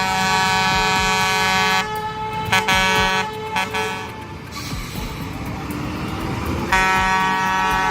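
Truck air horn blowing over engine noise: one long blast, a few short toots, a pause of about three seconds, then another long blast near the end.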